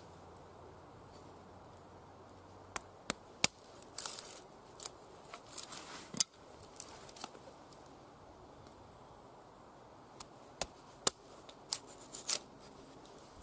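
A Cold Steel SRK knife working dry wood: irregular sharp clicks and cracks, a few close together, with a couple of short scraping cuts.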